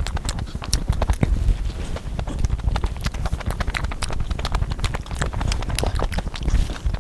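Close-miked eating sounds: chewing and wet mouth smacks, a quick irregular run of clicks over a low, steady rumble.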